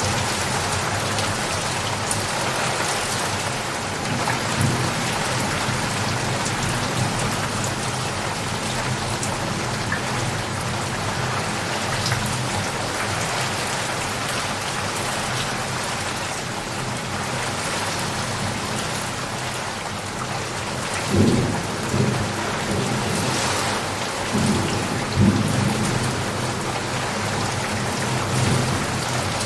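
Steady heavy rain falling, with a few short low rumbles of thunder in the last third.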